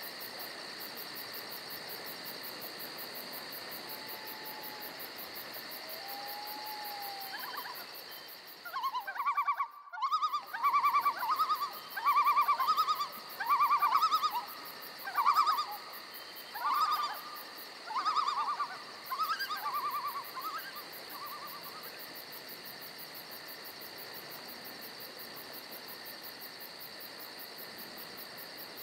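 Steady high-pitched chirring of insects. From about 8 to 21 seconds an animal calls about ten times in short, rapidly pulsed bursts, each louder than the insects.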